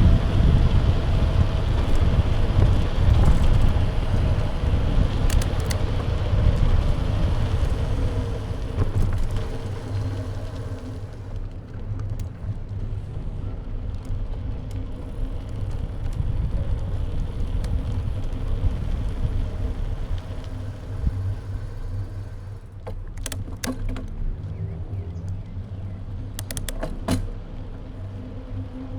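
Wind buffeting a bike-mounted action camera's microphone over tyre and road rumble from a moving bicycle, easing off about ten seconds in. A few sharp clicks near the end.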